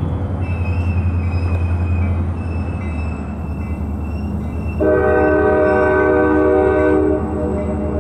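Freight train rolling over a street grade crossing with a steady low diesel rumble. About five seconds in, a locomotive's multi-chime air horn sounds one blast of a little over two seconds.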